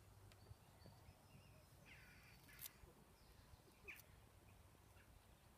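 Near silence: faint open-air ambience with a low rumble and a few distant bird calls, a harsher call about two seconds in and a short one about four seconds in.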